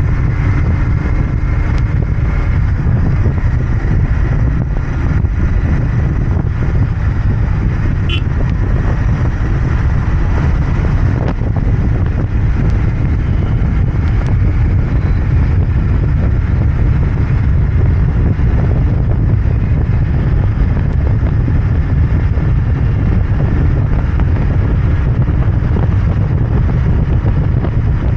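Royal Enfield Interceptor 650's parallel-twin engine and exhaust running steadily while the motorcycle is ridden along the road, with road and wind rumble.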